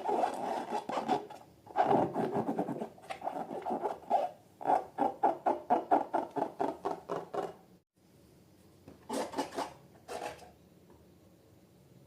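Hands working slime and rubber balloons in slime-making ASMR, giving a run of rubbing and squishing strokes about four a second. About two-thirds of the way through it cuts off suddenly, leaving low noise with two short rubs.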